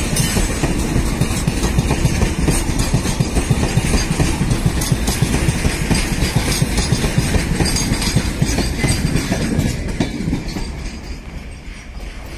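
Double-stack container freight train wagons rolling past, wheels clattering steadily on the rails over a low rumble. The sound fades from about ten seconds in as the brake van at the rear goes by and the train draws away.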